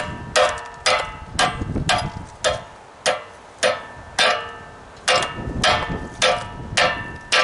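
Hammer blows on a metal part of a torn-down Dewalt air compressor, about two strikes a second, each ringing briefly. The part is being beaten to knock it loose.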